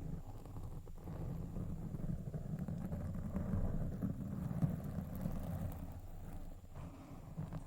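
Microphone being scratched directly, a continuous low, rumbling scratch with no pauses.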